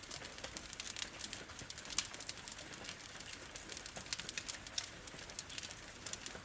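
Wood fire crackling, with frequent irregular sharp pops and snaps, over a steady hiss of rain.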